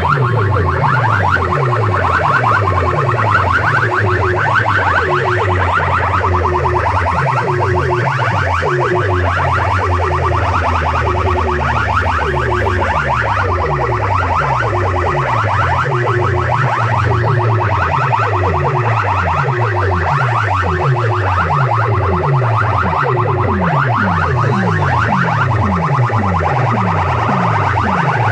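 Loud electronic sound-test track blasted through a DJ sound system: rapidly repeating electronic chirps over falling bass sweeps that come about twice a second.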